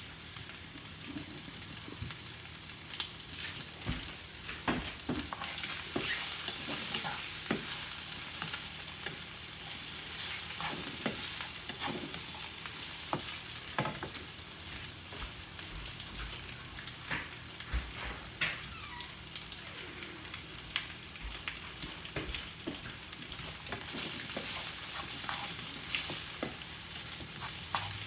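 Food sizzling in a hot frying pan as it is stir-fried, with frequent sharp clicks and scrapes of the utensil against the pan. The sizzle swells louder twice.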